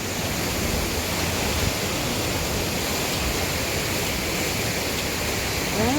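A river swollen by days of rain, its fast water rushing as a steady, even noise.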